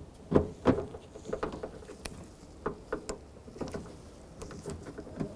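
Irregular small clicks and knocks of a socket ratchet running in the mounting bolt of a car's exterior door handle inside the door.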